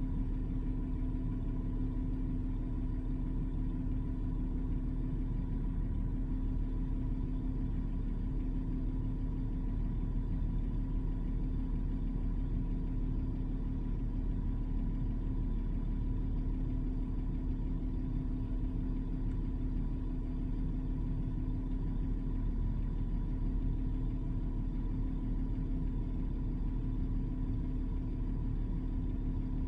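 A Toyota 4Runner's engine idling with a steady, unchanging low rumble, heard from inside the cabin.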